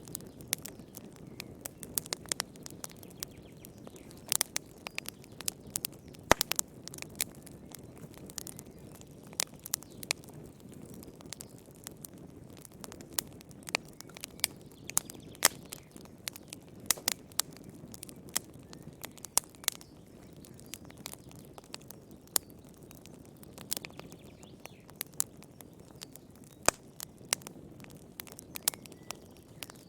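Wood fire crackling in a fireplace: irregular sharp pops and snaps, several a second at times, over a steady low rumble of the flames.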